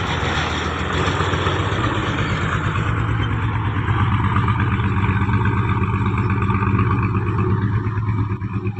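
A vehicle engine running. The higher road and wind noise dies away after about three seconds as the vehicle comes to a stop, leaving a steady low engine rumble at idle.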